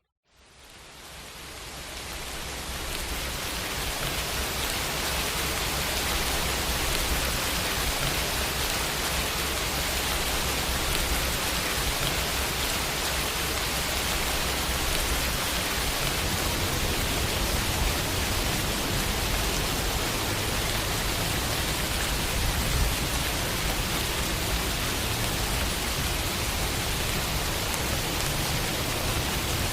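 Steady rainfall on a window, a dense even patter that fades in from silence over the first few seconds and then holds steady.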